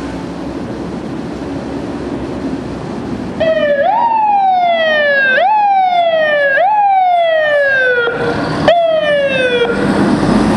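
Fire apparatus engine rumbling, then about three and a half seconds in an electronic siren starts. Each cycle jumps up quickly and slides down over about a second. Three cycles sound, then a brief break, then one more falling sweep before it cuts off.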